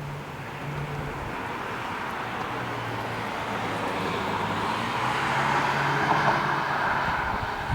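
A vehicle passing, its rushing sound growing louder over about six seconds and easing off near the end, over a faint low hum.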